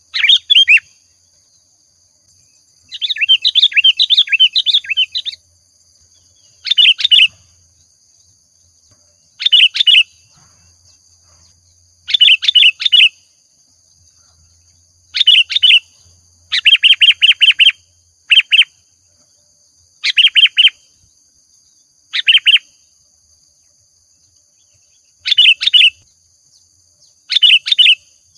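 Sooty-headed bulbul (kutilang) singing in short phrases of a few quick notes, about one every two to three seconds, with one longer run of notes a few seconds in. A faint steady high-pitched ringing runs underneath.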